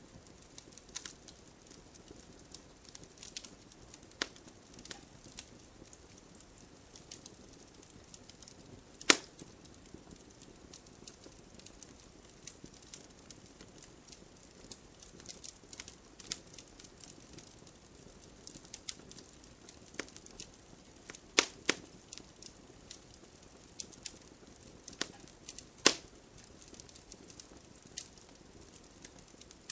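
Wood fire crackling, with irregular sharp pops and snaps, a few of them much louder, over a faint steady hiss of rain.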